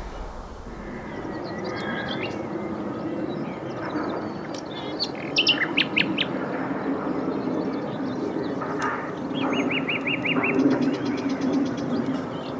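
Common nightingales singing, at least two birds: varied phrases of rapid repeated notes, fast trills and short whistles, over a low steady background hum.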